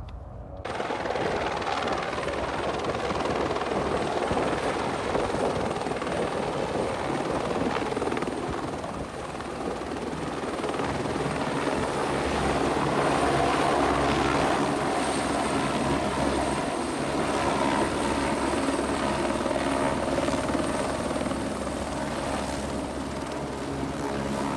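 Helicopter running close by as it slowly comes down to land, a steady loud rotor and engine sound that swells a little in the middle.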